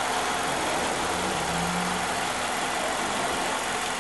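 Chevy Cobalt's 2.2-litre four-cylinder engine idling steadily, heard from the open engine bay.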